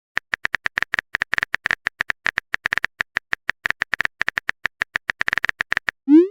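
Phone keyboard typing sound effect: a fast, irregular run of short tapping clicks, about eight a second, each with a small bright tick. It stops near the end with a quick rising whoosh.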